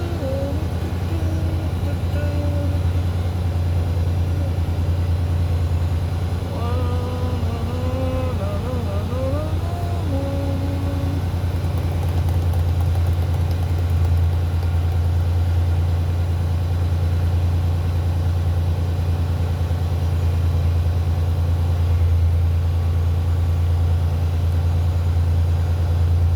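Steady low drone of a truck's diesel engine running. A faint voice is heard briefly, about seven to ten seconds in.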